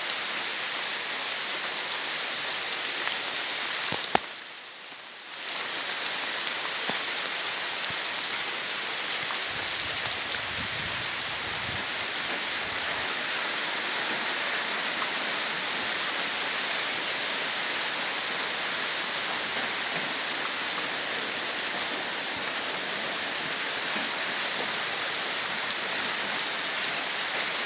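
Heavy rain falling steadily, a dense even hiss. A sharp click about four seconds in is followed by a brief drop in the sound for a second or two.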